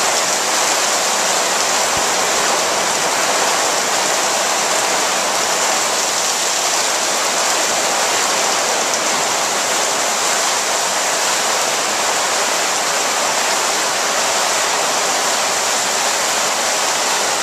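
Heavy rain pouring down and hitting the water surface in a steady, loud hiss.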